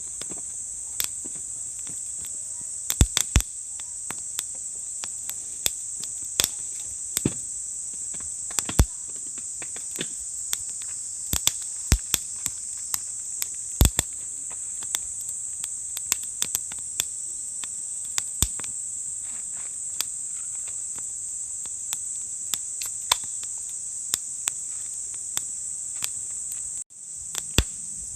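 Campfire crackling, with irregular sharp pops and snaps, over a steady high-pitched chorus of insects. The sound cuts out for a moment near the end, then resumes.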